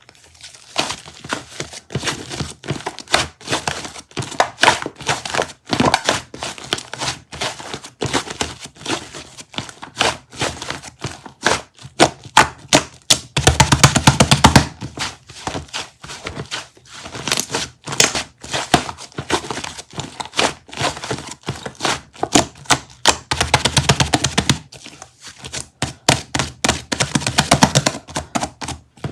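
Rapid, irregular tapping and clicking, with two short, denser stretches about 13 and 24 seconds in.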